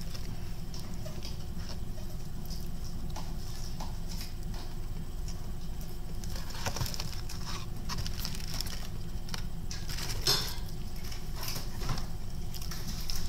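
Close-up mouth sounds of someone chewing fried chicken: soft smacks and small clicks over a steady low hum, with a sharper click about ten seconds in.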